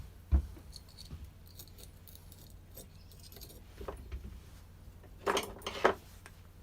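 Small metal clutch parts (shoes and springs) clinking and jangling as they are handled on the bench. There is a sharp knock just after the start, then light clicks, and a louder jangle about five seconds in.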